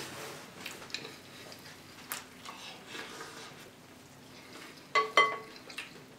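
Crunchy cereal being chewed close to the microphone, a crackling sound with small clicks. About five seconds in, a spoon clinks twice against a bowl with a short ring.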